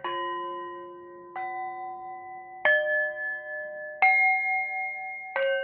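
Bell-like chimes struck one at a time, five notes of different pitch about every second and a quarter. Each note rings on until the next is struck, as a slow meditation background.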